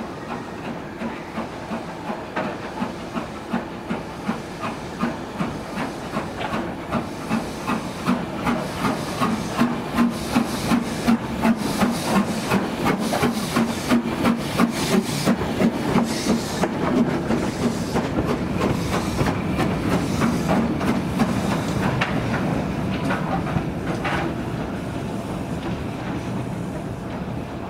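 A train passing, with a regular beat of about two a second that grows louder to a peak around the middle and then fades away.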